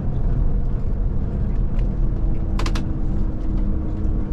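Scania Touring coach heard from inside the cabin while driving: a steady low rumble of engine and road noise. A brief rattle of a few quick clicks comes about two and a half seconds in.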